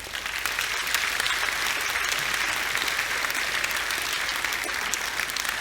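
Audience applauding in a large hall, a dense, steady clapping that starts suddenly.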